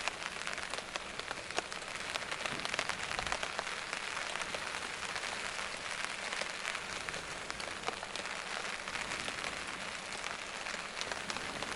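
Steady rain falling, an even hiss full of many small drop ticks.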